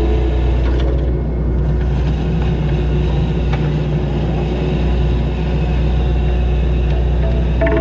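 Kubota skid steer's diesel engine running steadily under load while it works the topsoil, with a strong low rumble.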